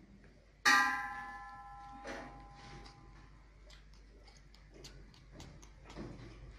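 A single sharp metallic clang about half a second in, ringing out with several tones that fade over about two seconds, followed by faint scattered clicks.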